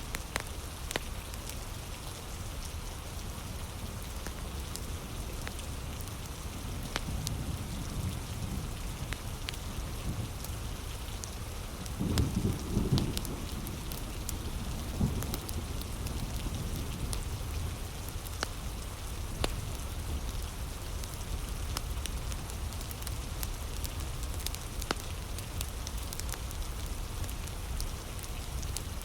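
Heavy, steady rain with scattered sharp crackles from a nearby wood fire. A deep rumble swells about twelve seconds in and briefly again a few seconds later.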